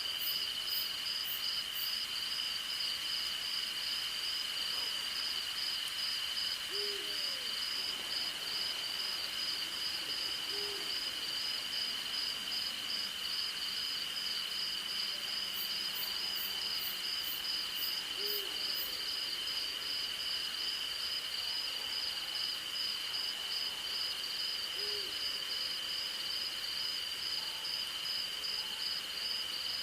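An owl hooting at intervals, four short single hoots several seconds apart, over a continuous night insect chorus: crickets giving a steady high trill and a rapid pulsing chirp.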